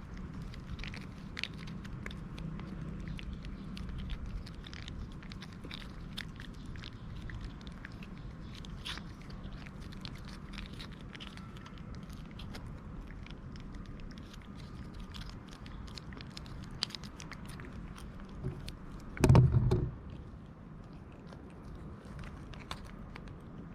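Cats chewing and crunching their food, a steady run of small clicks from biting. One brief loud thump about three-quarters of the way through.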